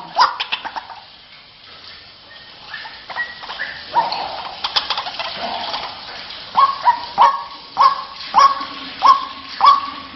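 White-breasted waterhen calling: a few scattered calls and clicks, then from about six and a half seconds in a steady run of the same call repeated over and over, nearly two a second.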